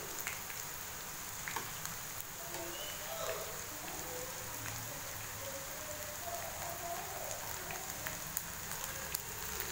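Battered bitter gourd rings sizzling steadily in hot oil in a frying pan, with a few faint clicks as they are turned over.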